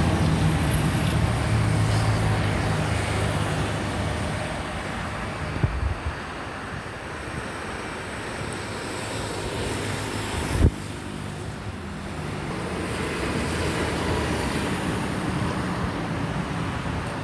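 Boeing 767-300ER jet engines rumbling steadily on final approach, mixed with wind on the microphone. The low hum eases over the first few seconds. There are brief thumps about six and ten and a half seconds in.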